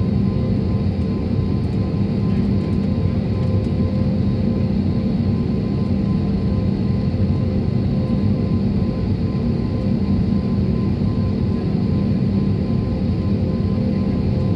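Steady low drone of jet engines and rushing air inside an airliner cabin in flight, with a faint steady hum running through it.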